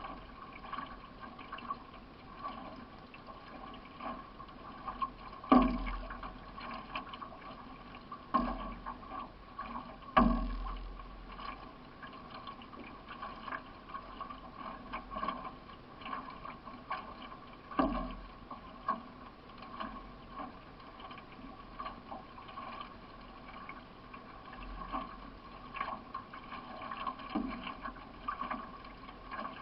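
Solo racing canoe underway with water rushing and splashing along the hull as it is paddled. A few sharp knocks break in, the loudest about five and ten seconds in.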